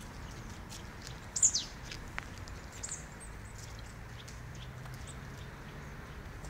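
A bird's high chirp falling in pitch about a second and a half in, then a few fainter high chirps, over faint steady outdoor background noise.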